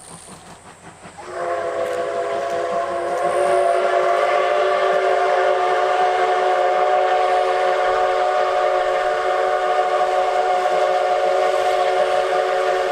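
Steam whistle of the C57 180 steam locomotive blowing one long, steady blast of several tones sounding together as a chord. It starts suddenly about a second in and grows louder a couple of seconds later.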